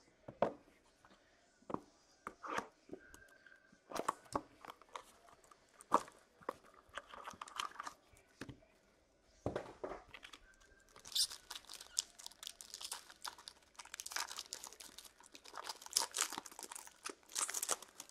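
Trading-card packaging being handled and torn open. It starts with scattered knocks and taps, then from about halfway the packaging crinkles and tears more steadily and more brightly.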